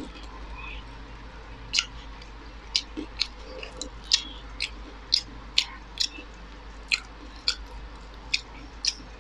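Close-miked chewing of food with the mouth closed: a series of crisp, sharp mouth clicks and smacks, about two a second, starting roughly two seconds in.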